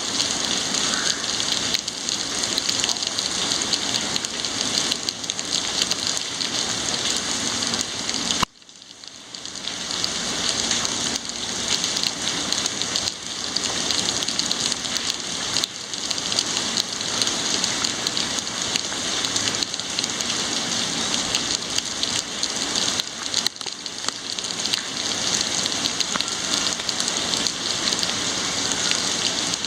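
Heavy rain pouring steadily, an even hiss, with a sudden brief dip in level about eight seconds in before it swells back.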